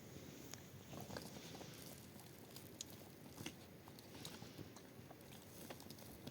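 Near silence with faint scattered small clicks and taps.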